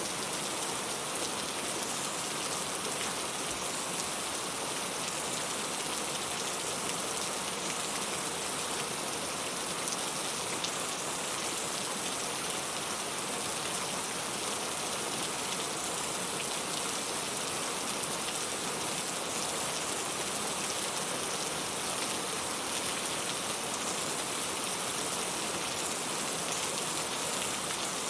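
Steady rain falling on a surface, an even hiss of many drops with faint individual patters, unchanging throughout.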